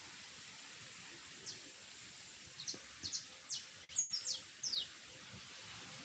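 A songbird singing a loose run of short, high notes, each sweeping quickly downward, starting about a second and a half in and stopping near five seconds, over a steady outdoor hiss.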